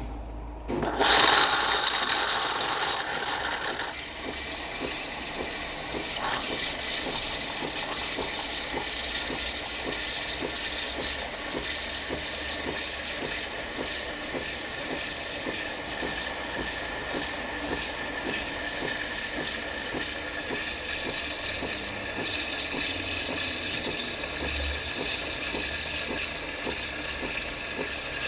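Nespresso capsule coffee machine brewing a coffee: a loud, hissy start lasting about three seconds, then steady, even mechanical running.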